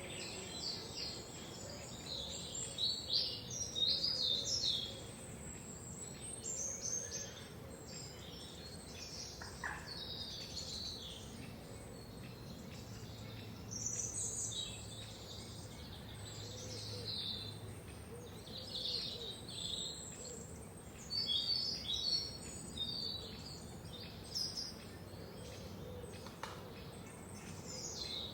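Several forest songbirds singing and chirping, with short high trills and chirps coming in bunches over a steady background hiss.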